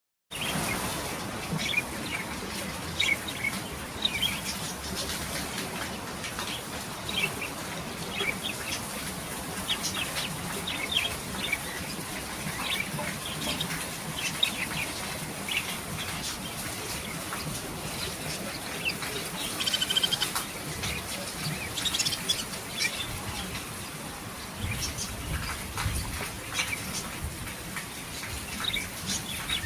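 Myna chicks chirping: many short, high calls repeating throughout, with a denser run of calls about two-thirds of the way in, over a steady hiss.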